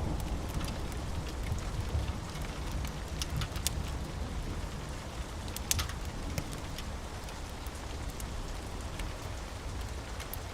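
Steady rain with a low rumble underneath and scattered sharp crackles from a wood fire.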